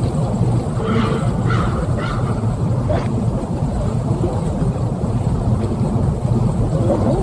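Strong blizzard wind rumbling steadily, with a few faint brief higher squeaks about one to three seconds in.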